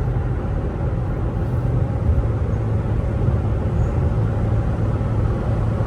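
Steady hum of an Infiniti car's engine and road noise, heard from inside the cabin while driving.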